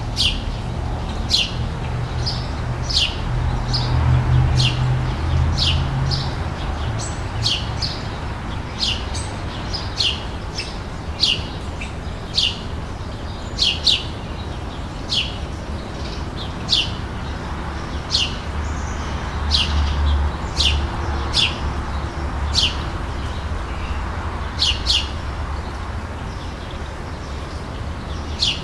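Summer outdoor ambience: a bird repeating a short, sharp falling chirp about once a second, sometimes twice in quick succession, over a steady low rumble.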